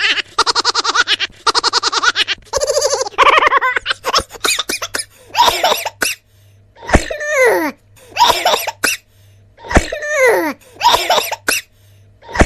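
Cartoon sound effects: a high, rapidly pulsing cartoon laugh in three bursts, a quick flurry of clicks, then a series of short voice-like calls that each slide down in pitch, about one every second and a half.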